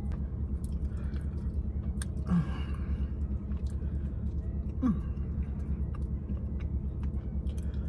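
A person chewing a mouthful of burger topped with hard corn chips, with scattered small clicks and crunches, over a steady low hum.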